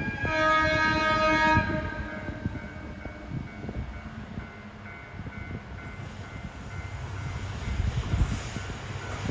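A JR Hokkaido diesel train sounds one horn blast of about a second and a half, then rolls past with a low, rough rumble and knocks from the rails.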